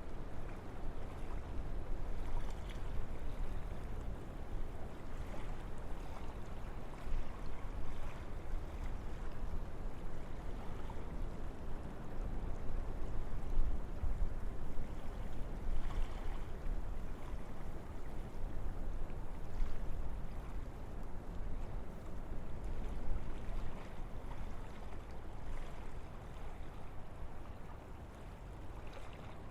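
Wind blowing through forest trees, a continuous rushing noise heavy in the low end that swells and eases in gusts.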